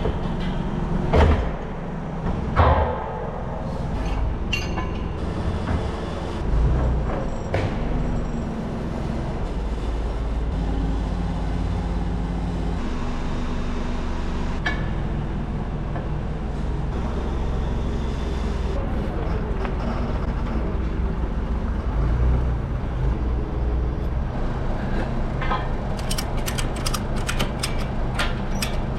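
Forklift engine running steadily under load, with a few sharp knocks and clanks from the rims being handled, and a quick run of clicks near the end.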